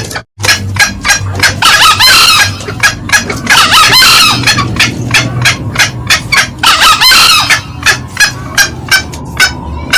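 Green junglefowl calling: a run of sharp clucks, about three a second, with three longer crowing calls standing out over them. The clucks stop for a moment just after the start.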